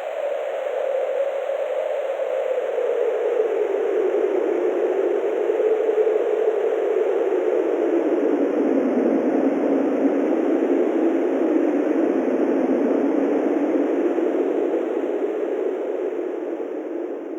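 Wind sound effect: a steady howling rush whose pitch slowly sinks over several seconds, beginning to fade near the end.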